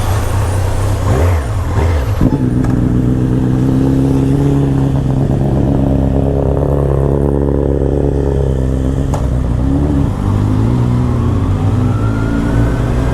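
Motorcycle engine running under way, holding a steady speed from about two seconds in, then rising in pitch near the end as it accelerates.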